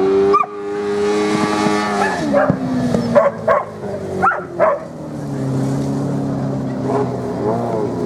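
Motorcycle engines running steadily, the pitch dropping about two seconds in and rising again from about five seconds. Several short, sharp yelping calls sound over the engines.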